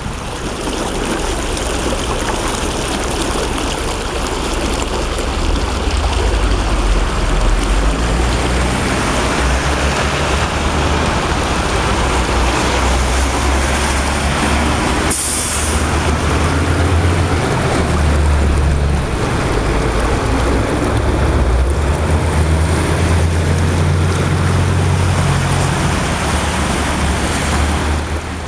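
Steady rush of floodwater, with a heavy low rumble from wind on the microphone and a brief click about halfway through.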